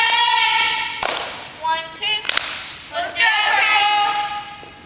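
Middle school cheerleaders chanting a slow cheer in unison, drawing each word out, with three sharp hits, about a second into the cheer, just after two seconds and at three seconds.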